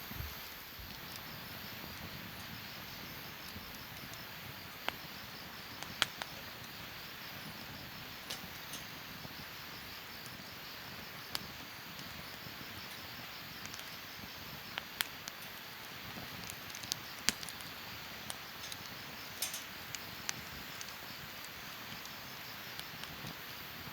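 Wood fire crackling in a fire pit: a steady soft hiss broken by irregular sharp pops and snaps.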